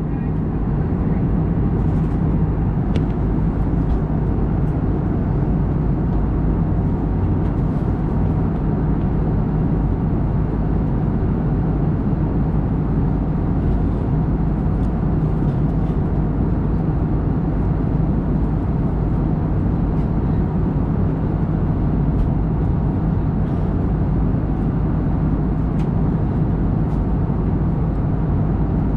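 Steady cabin noise of an Airbus A321neo in flight: an even rush of airflow with a constant low engine hum underneath.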